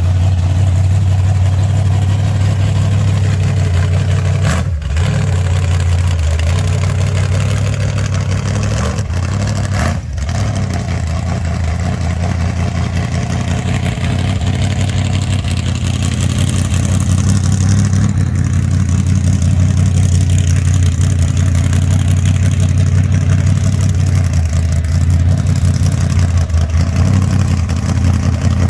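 Car engines running: a steady, loud low rumble as classic cars roll into the show lot.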